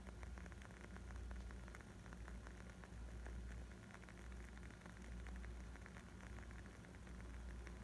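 Wood fire crackling: a steady stream of small, quick pops and snaps over a low rumble.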